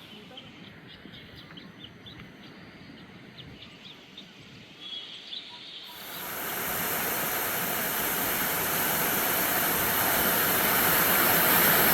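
Quiet outdoor background with short, faint bird chirps. About six seconds in, a steady rushing hiss comes in abruptly and grows louder, strongest in the high treble.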